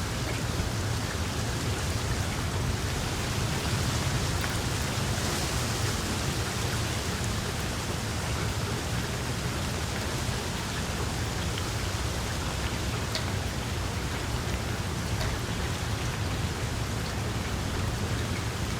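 Wood fire crackling in a fireplace: a steady hiss over a low rumble, with a few scattered small pops.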